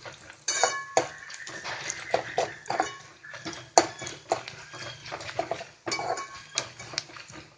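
A metal spoon stirring and scraping in a kadai, with repeated irregular clinks and knocks against the pan as roasted chana dal is mixed in with frying peanuts and onion.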